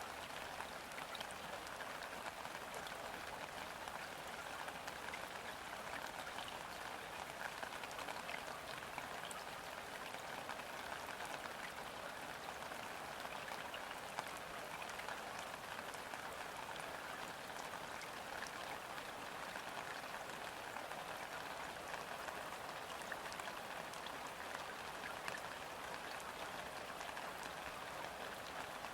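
Steady light rain falling onto a river's surface, a dense even hiss of countless small drop splashes with no let-up.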